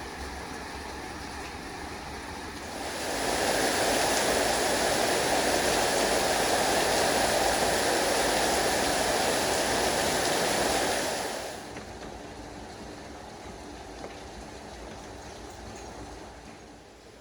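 Steady rush of flowing water, much louder from about three seconds in until about eleven and a half seconds, when it drops back to a softer rush.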